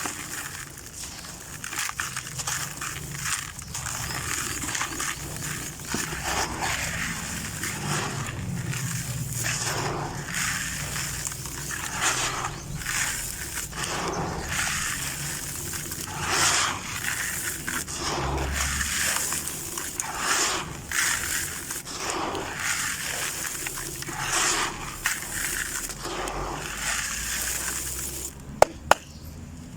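White sand-cement shapes coated with small crunchy grains being crushed and crumbled: a continuous run of gritty crunching and crackling, uneven in rhythm. There are two sharp clicks near the end.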